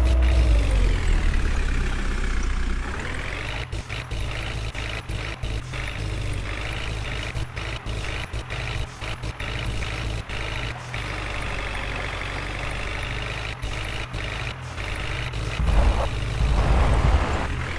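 Heavy diesel machinery engine running. It swells and dips in pitch at the start, runs steady, then revs up louder near the end.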